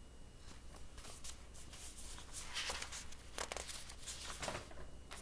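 Paper pages of a picture book rustling in a run of short, irregular crinkles as they are handled and turned, over a low steady hum.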